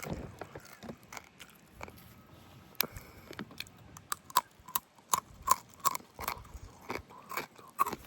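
Close-miked chewing of rotisserie chicken: a string of wet mouth clicks and smacks, coming thicker in the second half.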